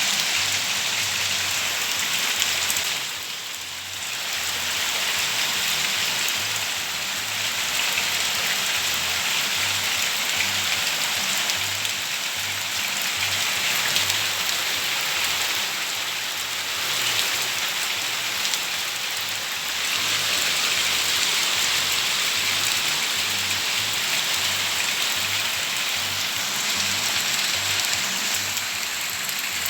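Heavy rain falling steadily as a dense, even hiss, easing briefly about three seconds in before returning to full strength.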